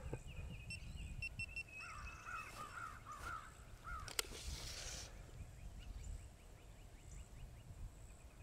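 Faint bird calls in an open field: a run of short repeated high notes, then a string of about six falling calls. A single sharp click about four seconds in, followed by a brief hiss.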